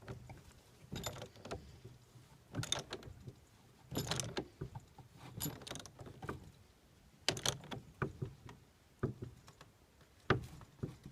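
Metal clicks and clunks at irregular intervals as a spanner and socket tighten the blow-out kit's end fitting onto a two-stroke exhaust pipe.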